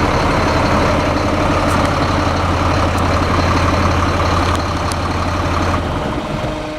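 Freightliner M2 grain truck's diesel engine running steadily, its low hum easing off about six seconds in.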